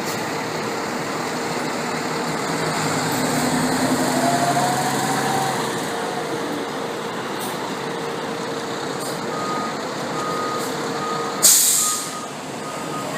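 Fire engine running as it backs up, its reversing alarm beeping about twice a second over the last few seconds. Near the end comes a short, loud hiss of air brakes, the loudest sound.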